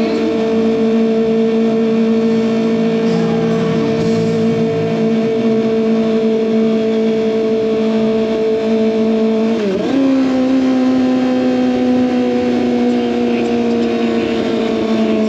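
Kawasaki ZX25R's inline-four engine running through an SC Project aftermarket exhaust, holding a steady high-revving note while the bike cruises. About ten seconds in, the note dips briefly, then jumps higher, like a downshift, and slowly falls.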